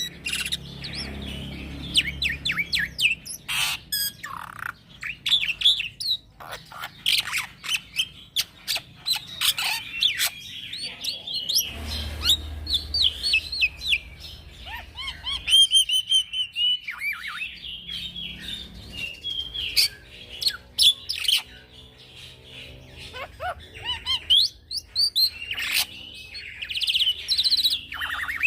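A young black-winged myna (jalak putih) singing without a break: a fast, varied run of whistles, chattering notes and sharp clicks.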